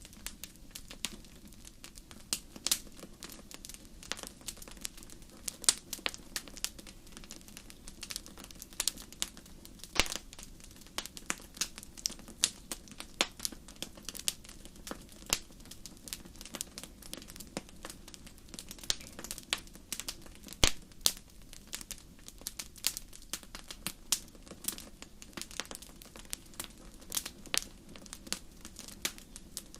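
Wood fire crackling in a fireplace: frequent sharp, irregular pops and snaps over a low steady rumble of burning.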